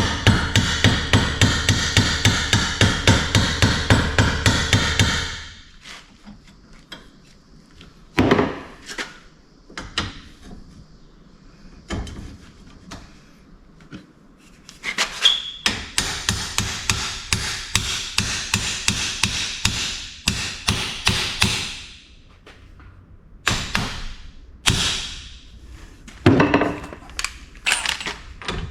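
Hammer striking a 3-inch steel exhaust pipe to beat a misshapen end back into round. Quick, even blows, about five a second, in two long runs with a pause of scattered single strikes between them.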